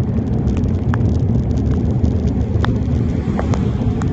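Steady low rumble of wind and road noise on a phone microphone carried on a bicycle riding in heavy rain, with scattered sharp ticks of raindrops striking near the microphone.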